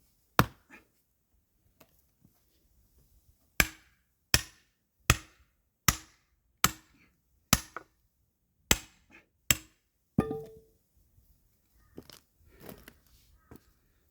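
Firewood being chopped: one sharp strike, then a steady run of about eight strikes roughly three-quarters of a second apart, several ending in a short ring. Softer knocks and clatter follow near the end.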